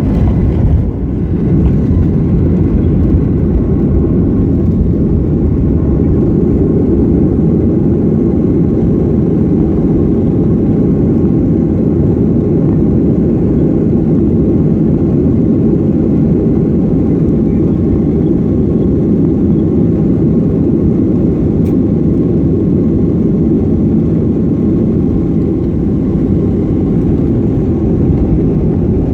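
Airliner cabin noise: the steady, deep drone of the engines and rushing air, heard from inside the cabin.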